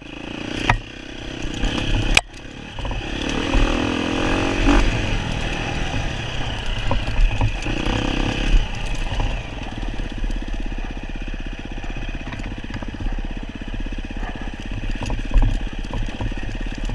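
Off-road enduro motorcycle engine revving up and down, then running at a steady pace, with a couple of sharp clacks early on.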